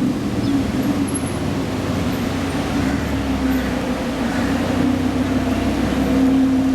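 Supercar engine running steadily at low revs, a held drone that gets a little louder about six seconds in.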